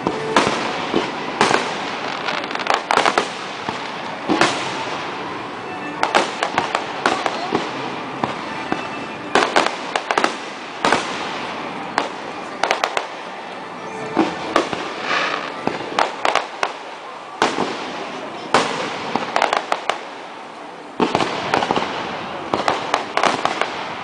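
Aerial firework shells bursting one after another, sharp reports every second or so at irregular intervals, with a denser run of bursts near the end.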